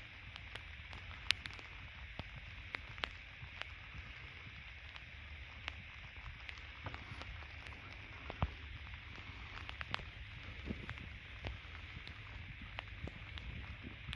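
Steady rain hiss with scattered, irregular ticks of drops striking nearby surfaces, over a low wind rumble on the microphone.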